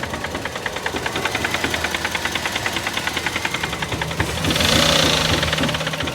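Toyota GLi car engine running with a fast, even ticking knock, a noise the mechanic puts down to unsuitable oil put in the engine. About four seconds in, it briefly gets louder with a rushing sound, then settles.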